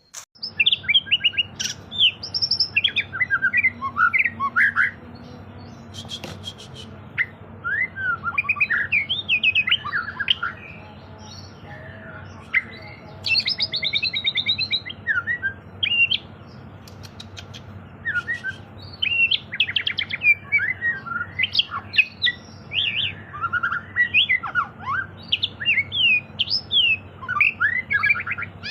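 White-rumped shama (murai batu) singing a varied song of rapid whistled phrases and chatters, broken by brief pauses, with a few quick dry rattles of clicks, over a steady low hum.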